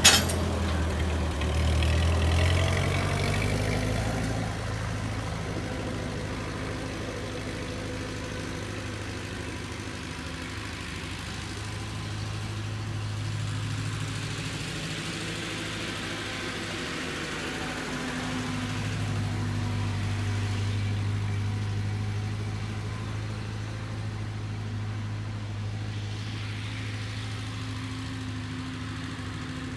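A vehicle engine running steadily, its pitch and level rising and falling slightly, with a sharp click at the very start.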